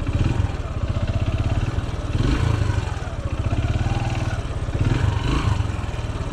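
Small engine running steadily with a fast low pulsing beat.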